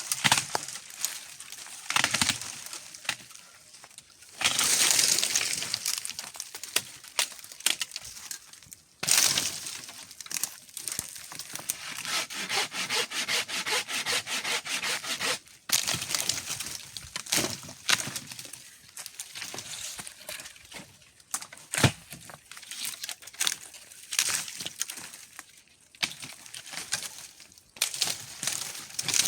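Dry firewood being broken up by hand: repeated cracks and snaps of branches, with a stretch of rapid, even rasping strokes in the middle.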